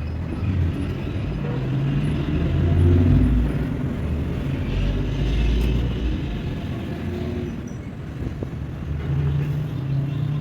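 Low mechanical rumble with engine-like tones that shift in pitch, swelling louder about three and five seconds in.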